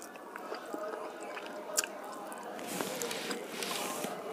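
Close-miked mouth sounds of a person eating rice and koi fish by hand: wet chewing and lip smacks with a few sharp clicks. About three seconds in there is a hissy stretch lasting about a second.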